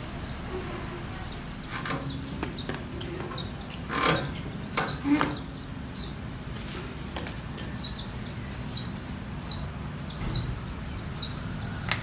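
Small birds chirping in quick, repeated high calls, with a few dull knocks in the first half.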